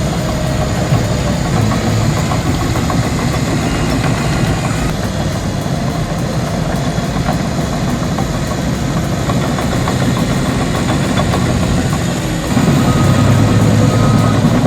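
Heavy-equipment engine running steadily, growing louder near the end.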